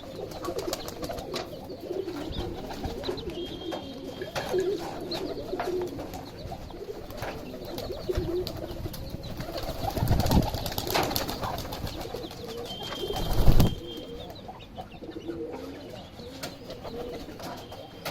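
Mother hen making a low, continuous clucking murmur among her chicks, with many short tapping clicks of pecking and a few brief high chick peeps. Two louder noisy bursts come about ten and thirteen seconds in.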